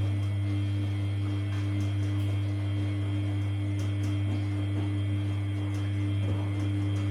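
Samsung P1271 front-loading washing machine's drain pump running with a steady mains-frequency hum.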